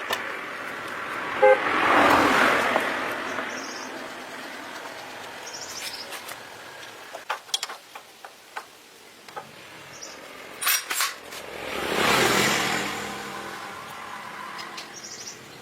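Road vehicles passing twice, each swelling and fading over a few seconds, with a brief horn toot about a second and a half in and scattered clicks and knocks in between.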